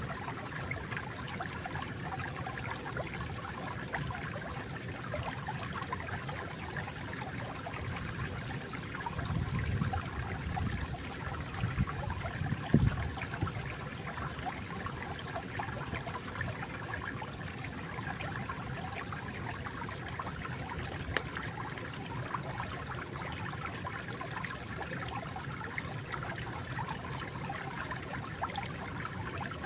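Flowing water trickling and babbling steadily, with a deeper, louder swell of water for a few seconds near the middle.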